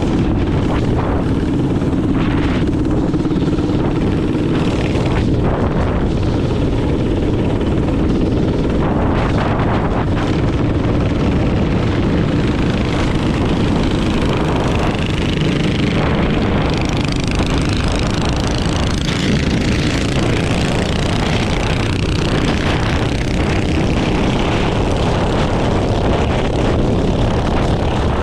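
Minibike's small engine running steadily under way, with wind buffeting the microphone.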